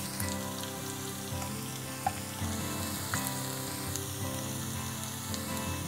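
Diced mullet with onions and peppers sizzling steadily as it fries in sunflower oil in a pan, the water cooked off so it is sautéing dry. A few light clicks come through.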